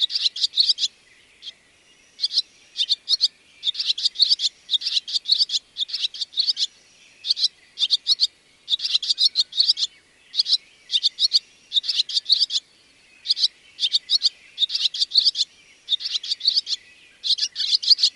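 Barn swallow twittering: quick clusters of short high chirps, repeated again and again with brief pauses between them.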